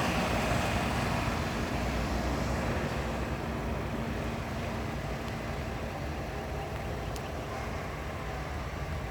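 Steady low rumble of idling engines with a faint steady hum, easing off a little over the seconds.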